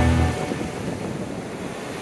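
Music stops about half a second in, giving way to a steady wash of sea waves breaking on the shore, with some wind noise.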